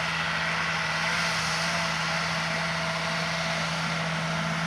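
An engine running steadily with a constant low hum and an even hiss, with no change in pitch.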